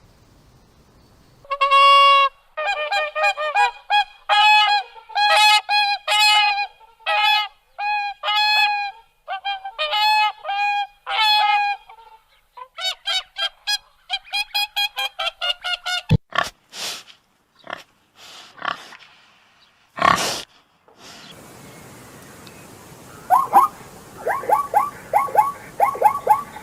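Domestic waterfowl honking: a loud series of clear, nasal calls, mostly in pairs, then a run of quick short calls and a few short hoarse bursts. Near the end a different string of fast calls starts over background noise.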